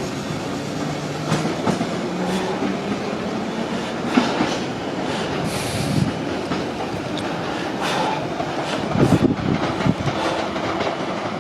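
London Underground Piccadilly line 1973 Stock tube train pulling out of the station, its motors whining slowly up in pitch during the first few seconds while the wheels click over the rail joints as it gathers speed.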